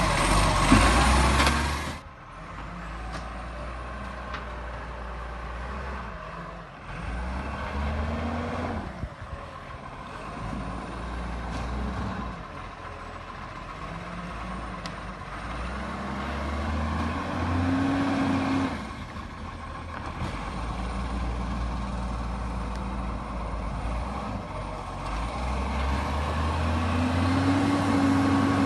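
Garbage truck engine running, revving up briefly about every nine seconds, after a loud hissing passage in the first two seconds that cuts off suddenly.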